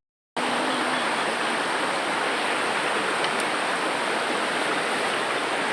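Steady rushing of water, an even noise that starts just after a short gap and stops abruptly at a cut near the end.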